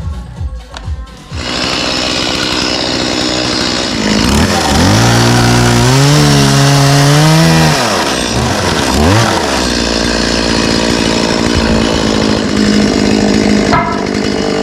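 Two-stroke chainsaw pull-started with a few short tugs of the cord, catching about a second and a half in. It then runs, revving up and held high for a few seconds, dropping back, blipped twice and running steadily, sawing off support posts.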